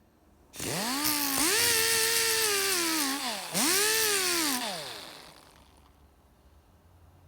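Compressed-air blow gun blowing WD-40 off freshly washed metal vise parts in two bursts, the second shorter: a loud hiss with a whistling tone that rises as the trigger opens and falls away as it closes.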